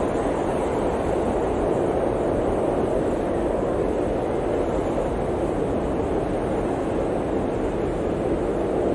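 Steady, low blizzard wind blowing without a break or gust.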